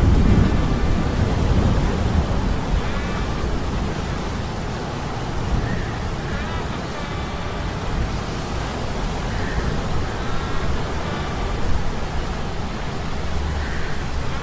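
Sea-storm ambience of metal gears humming: a steady wash of wind and surf over a deep rumble, with faint metallic creaking tones rising and falling every couple of seconds. A low rumble, loudest at the start, dies away over the first couple of seconds.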